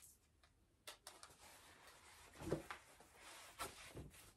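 Faint rustling of a silk twill square scarf being unfolded and shaken out by hand, with a few soft clicks and taps.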